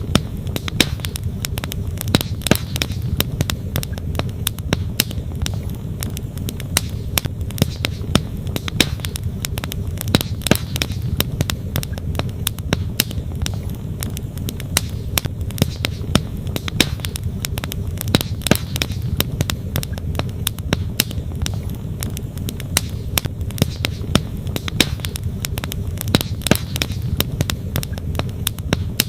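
Wood campfire crackling with frequent, irregular sharp pops over the steady rush of a flowing stream.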